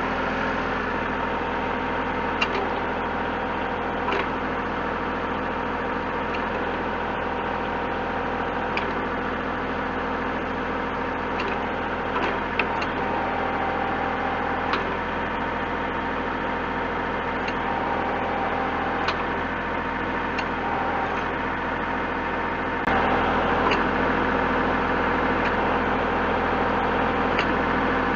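Diesel engine of the compact tractor carrying a Kubota BH77 backhoe, running steadily to drive the backhoe's hydraulics, with scattered light clicks and knocks. Late on, the engine gets louder.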